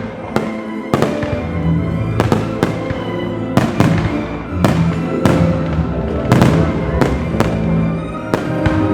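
Fireworks display: more than a dozen shell bursts bang in quick succession over music playing along with the show.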